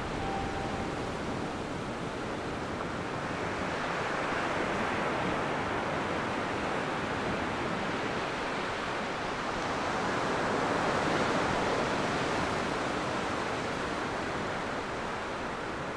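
Small waves washing up a flat sand beach, a steady surf hiss that swells twice, about four seconds in and again around ten to twelve seconds.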